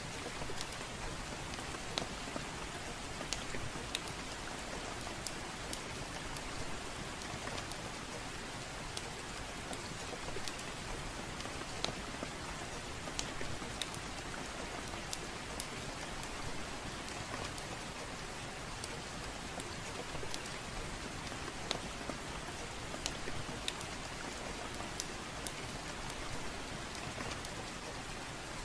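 Steady soft rain, with sharp crackles from a wood fire popping at irregular moments, about one or two a second.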